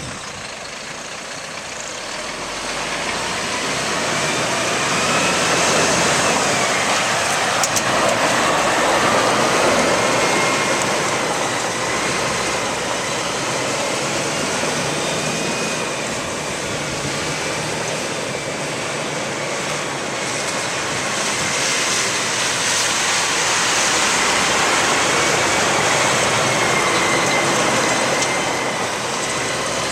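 Kenworth T800 concrete mixer truck with its Cat C-10 diesel engine running. The engine noise grows louder a few seconds in, and a faint whine wavers slowly up and down in pitch.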